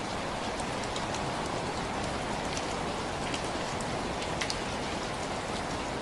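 Steady rain falling, a continuous hiss with many scattered drops ticking on surfaces.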